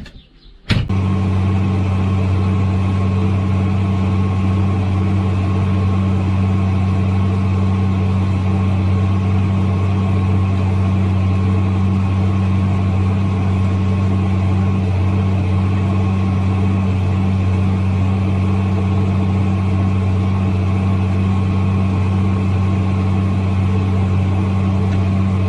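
Tractor engine running at a steady speed: a loud, even, deep drone that cuts in suddenly less than a second in and does not change.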